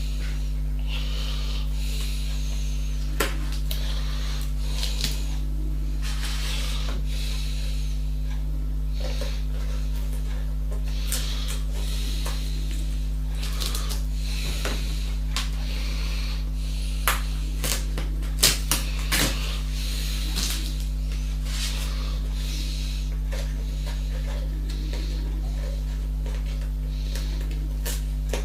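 A steady low hum with scattered clicks and taps and soft rustling, the loudest cluster of clicks near the two-thirds mark.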